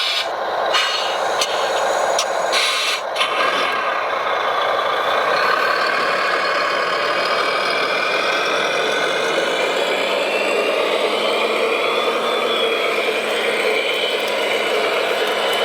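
Radio-controlled model truck running, its motor and drivetrain making a steady mechanical noise. A faint whine rises slowly in pitch, and a few sharp clicks come in the first seconds.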